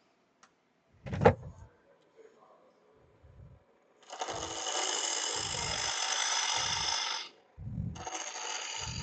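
A 1/2-inch bowl gouge cutting into a log spinning on a wood lathe, in two steady shearing passes: the first from about four seconds in, lasting about three seconds, and the second starting near the end. A single sharp knock comes about a second in.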